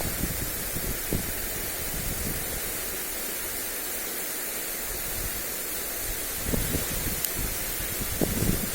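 Lawn sprinkler spray hissing steadily onto grass. Wind gusts buffet the microphone with low rumbles near the start and again in the last couple of seconds.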